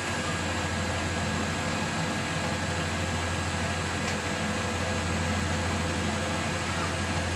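Restored Colchester Student lathe running under its main motor with the carriage on power feed: a steady mechanical hum with a strong low drone, even throughout.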